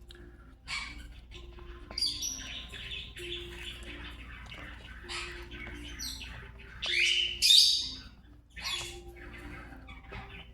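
Pet parrot giving a string of short squawks and chirps, the loudest two coming close together a little past the middle.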